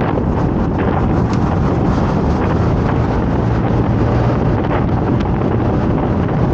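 Heavy wind buffeting on the microphone of a motorcycle-mounted action camera while riding. The motorcycle engine drones steadily underneath.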